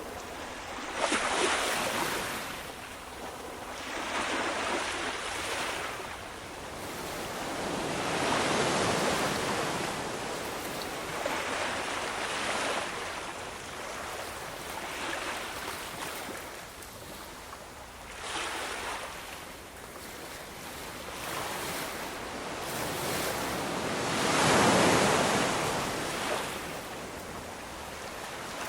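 Ocean surf: waves breaking and washing in, swelling and fading every few seconds, with the biggest wave near the end.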